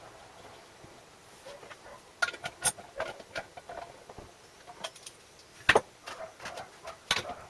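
Irregular clicks, clinks and taps of small metal parts and tools being handled, starting about two seconds in, with the sharpest knock a little before the end.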